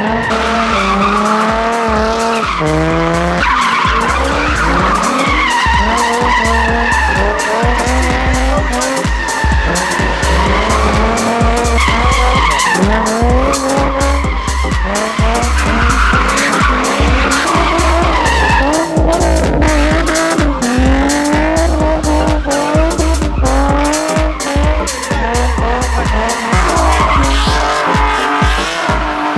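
Drift cars' engines revving up and down repeatedly, with tires skidding, over music with a pulsing heavy bass.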